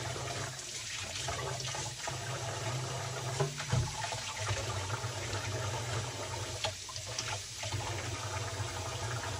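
Water running from a kitchen tap in a steady stream, with a low steady hum beneath and a few light clinks.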